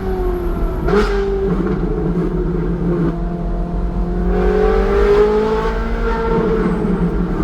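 Ferrari 458's 4.5-litre V8 through a Secret Weapon aftermarket exhaust, heard on board and running loud. There is a short crack with a drop in engine note about a second in, then the note climbs steadily under acceleration and eases off slightly near the end.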